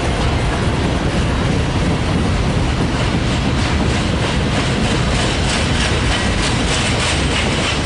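Train rolling past close by: the steady rumble and clatter of railroad car wheels on the track, with a regular clicking of wheels over rail joints through the middle. No horn is sounding.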